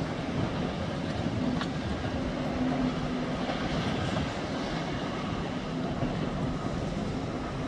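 Diesel engines of small excavators and other site machinery running steadily: an even drone with a faint low hum and no distinct knocks.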